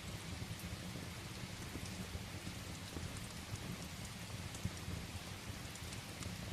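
Steady rain falling, with a low rumble underneath and scattered faint ticks and crackles, as of a wood fire burning in a fireplace.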